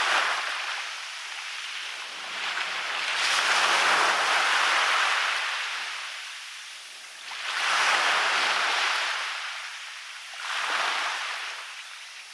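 Waves breaking and washing up a beach, a hissing surge that swells and fades several times, with three washes about a second, four seconds and seven seconds in, the last one shorter and weaker.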